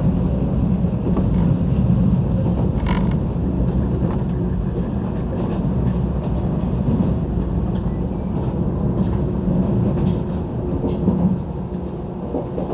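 JR 185-series electric train running along the line, heard from inside the carriage: a steady low rumble of wheels and running gear, with a sharp click about three seconds in.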